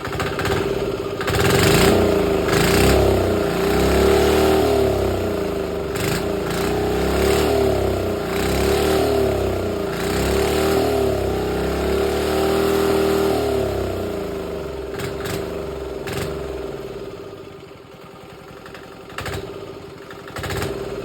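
Diesel engine swapped into a mini bike, revved with the throttle about six times, each rev rising and falling in pitch, then settling back and going quieter near the end.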